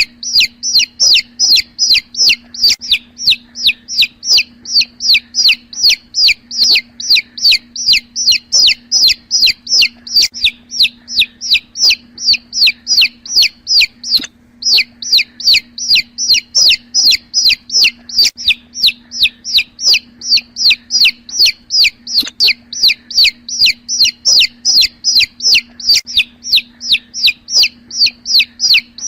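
Young chicks peeping loudly and without pause, short falling chirps about three a second, over a steady low hum.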